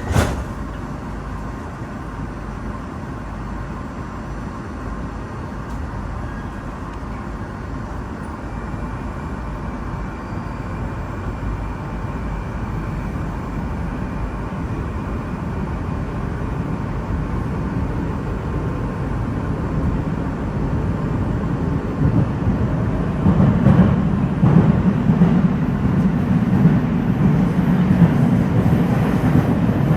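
Metro train running through a tunnel, its rumble building steadily as it gathers speed, with a heavier low rumble from about three-quarters of the way in. A single sharp knock at the very start.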